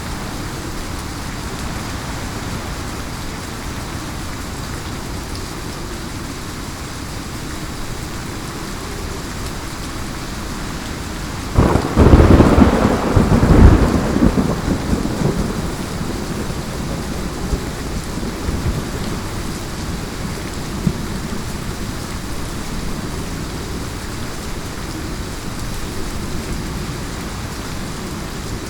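Heavy rain falling steadily, with a sudden loud thunderclap about twelve seconds in that crashes for a couple of seconds and rumbles away over the next several.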